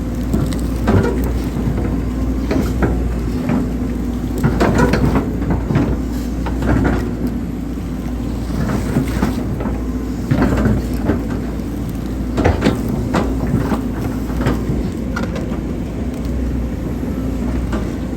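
Hydraulic excavator's diesel engine running steadily, with repeated knocks and scraping from the bucket working soil while digging a drainage ditch.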